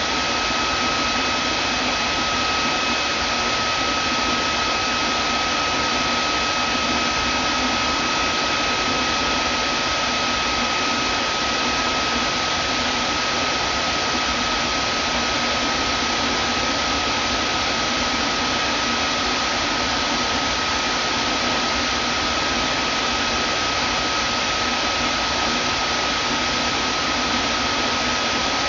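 Vacuum cleaner running steadily: an even rushing hiss with a constant high whine through it.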